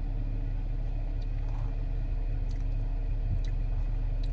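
Steady low hum of an idling car, heard from inside the cabin, with a few faint clicks.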